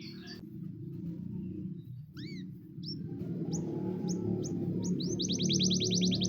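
Canary singing: a few separate whistled notes and sweeping calls, then a fast trill of rapidly repeated notes that begins about five seconds in.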